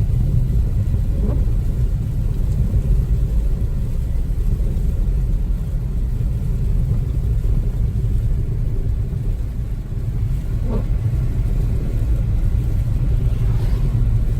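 Steady low road and tyre rumble inside the cabin of a 2014 Chevrolet Spark EV driving on an icy, slushy road, with no engine note from the electric drive.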